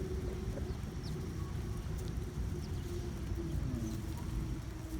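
Small birds giving a few short, high, falling chirps over a steady low hum and rumble.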